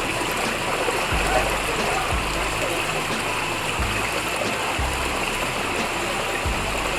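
Steady rush of running water at a water park, with background music carrying a slow bass line that changes about once a second.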